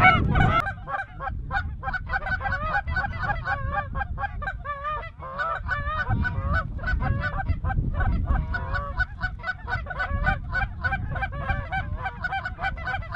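A flock of geese calling: many short, wavering yelps and honks overlapping continuously, over a low rumble.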